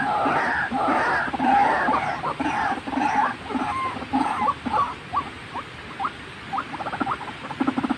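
White-breasted waterhen (ruak-ruak) calling: a run of repeated croaking, warbling calls that thins in the second half into short rising notes about twice a second, then turns into fast pulsing calls near the end.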